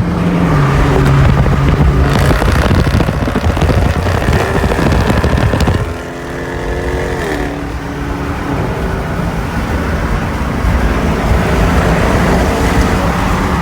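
Loud car engines revving and accelerating, the engine pitch rising and falling through shifts, with a short drop in loudness about six seconds in.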